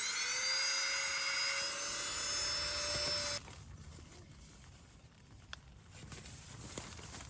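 A small motor spins up to a steady whine and runs for about three and a half seconds, then stops abruptly; afterwards only faint noise and a few light clicks.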